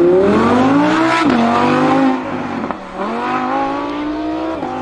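Supercar engine accelerating hard through the gears: the revs climb steadily, drop sharply at an upshift about a second in, climb again after a brief break around three seconds, and drop at another upshift near the end.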